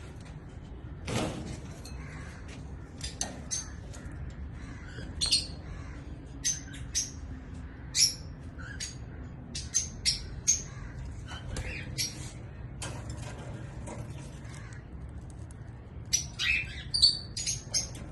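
White cockatiel giving short, sharp chirps and squawks at irregular intervals, coming thicker and faster near the end.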